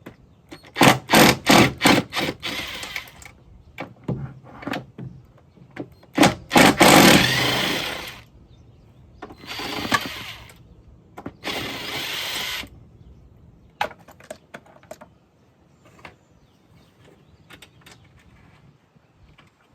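A handheld power tool run in bursts, likely backing out fasteners. It starts with about six quick trigger blips, then three longer runs of one to two seconds each, followed by scattered small clicks.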